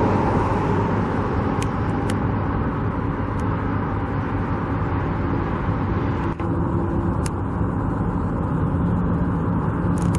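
Steady outdoor rumble of vehicle engines and road traffic, with a few faint humming tones and no clear single event.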